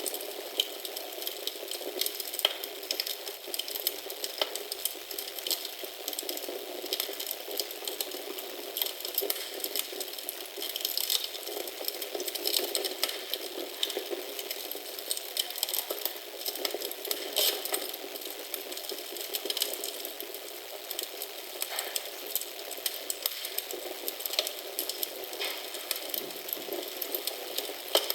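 Wood fire crackling in a fireplace: a continuous hiss with frequent sharp pops and snaps scattered irregularly throughout.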